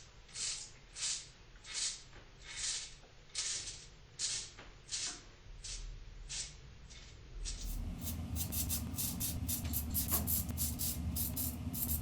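Double-edge safety razor (Merkur 30C with a Gillette Silver Blue blade) scraping through lathered stubble in short strokes, about one every 0.8 seconds. About two-thirds of the way in, the strokes become quicker and closer together over a low steady hum.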